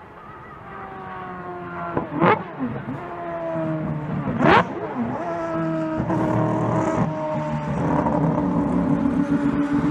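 Mazda 787B race car's R26B four-rotor rotary engine, with two brief, sharp rises in pitch about two and four and a half seconds in, then a steady note that slowly climbs in pitch.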